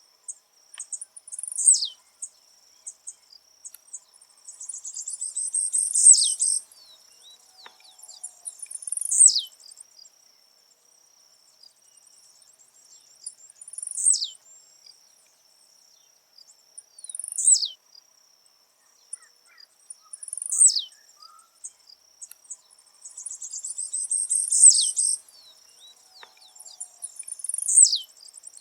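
Blue-black grassquit (tiziu) singing its short, high, buzzy song that ends in a sharp falling note, repeated about eight times at intervals of three to four seconds; twice a longer buzzy run leads into the song. A steady high insect trill continues underneath.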